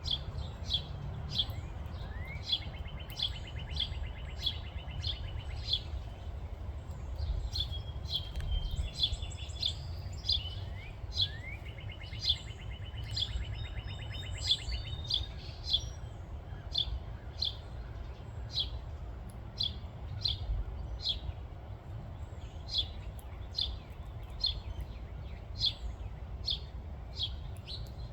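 Small birds chirping: a steady series of short, high chirps about twice a second, with a long trill a couple of seconds in and another near the middle. A steady low rumble runs underneath.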